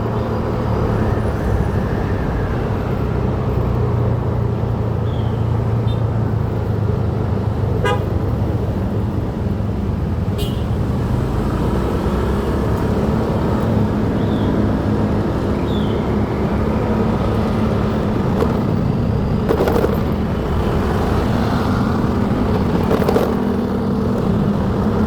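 Motorcycle engine running steadily under wind noise while riding through traffic, with a vehicle horn tooting briefly a few times.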